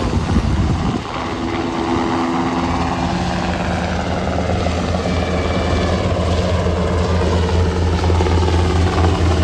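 UH-60M Black Hawk helicopter running, its rotor and turbine engines giving a steady low hum with a whine that slowly falls in pitch, and a rhythmic rotor beat growing plainer near the end.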